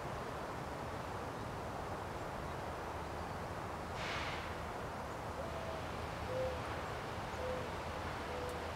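A bird hooting softly in the distance: one longer, slightly higher note, then three lower hoots about a second apart, over steady outdoor background noise. A brief rushing noise comes about four seconds in.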